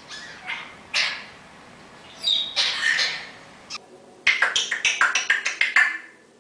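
Pet parrots calling: a few separate squawks, then a quick run of about a dozen short, sharp chirps near the end.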